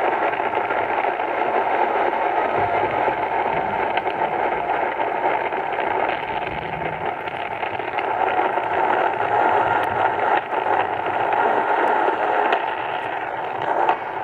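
AM radio receiver tuned to 1080 kHz, giving steady static hiss broken by scattered crackles: lightning static crashes on the AM band, covering the station.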